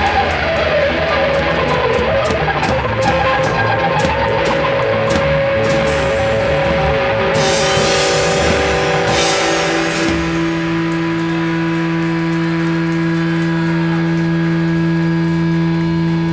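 Rock band playing live, with electric guitar and drum kit and several cymbal crashes. About ten seconds in, the band settles onto a long held chord that keeps ringing.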